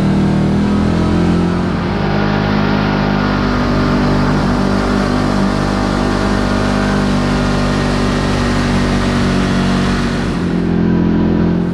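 Kawasaki KRX4 1000 side-by-side's parallel-twin engine running steadily under way on the trail, pulling a little harder near the end before cutting off suddenly.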